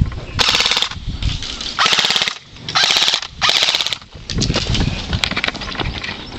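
Airsoft gun firing on full auto: four short rapid-fire bursts of about half a second each in the first four seconds, followed by a few scattered single clicks.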